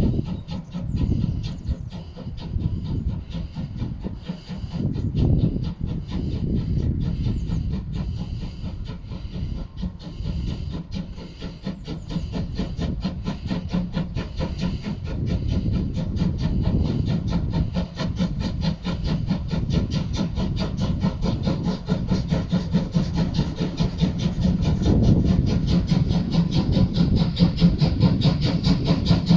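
DR class 50 steam locomotive 50 3516 working under steam: its exhaust beats in a quick, steady rhythm over a hiss, getting louder near the end.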